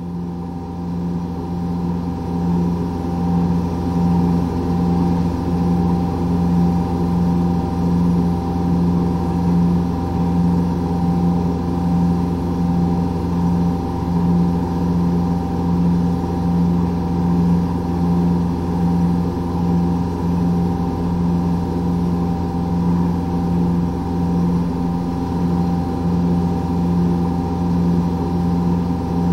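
A borehole drilling rig running steadily while drilling. Its low hum pulses evenly about one and a half times a second over a constant machine drone.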